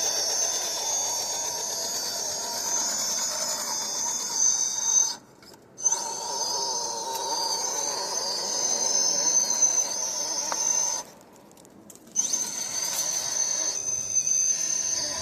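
Electric motor and geartrain of an RC crawler tow truck whining steadily under throttle, cutting out twice: briefly about five seconds in and for about a second near eleven seconds, each time coming back on.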